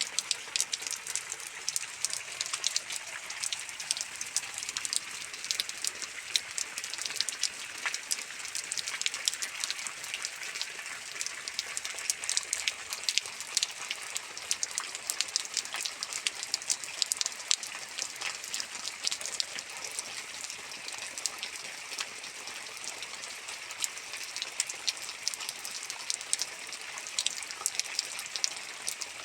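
Steady rainfall, with many sharp, close drop impacts ticking over a continuous hiss of rain.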